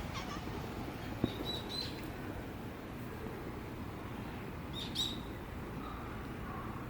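Short, high bird chirps over a steady background hiss: a couple about a second and a half in, and another about five seconds in.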